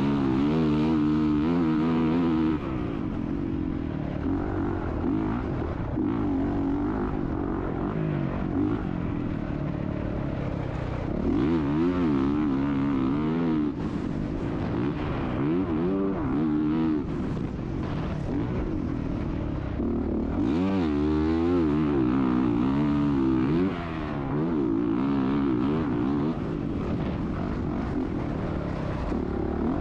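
Motocross bike engine revving hard and easing off again and again as it is ridden around a dirt track, its pitch climbing and dropping repeatedly.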